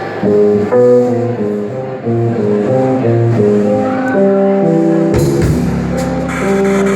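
Instrumental passage of a folk song: a melody of single plucked notes on guitar, with fuller low notes and a thicker accompaniment joining about five seconds in.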